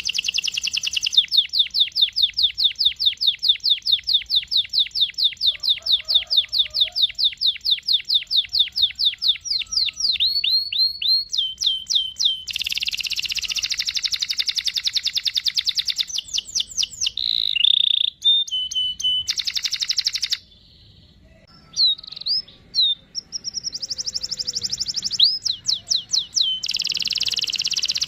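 Domestic canary singing long rolling trills, fast runs of repeated high notes that switch from one roll to another, with a brief pause a little past the middle.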